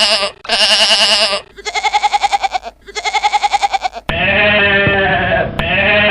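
Farm animals bleating: four wavering, quavering bleats in quick succession, each about a second long, then after an abrupt cut two longer, lower bleats from another animal.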